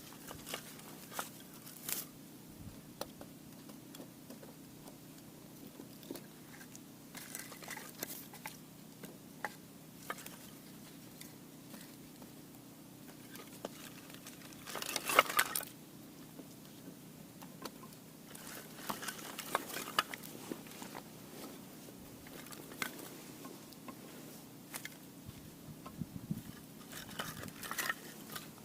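Firewood fire crackling, with irregular sharp snaps and pops and a louder cluster of crackles about 15 seconds in.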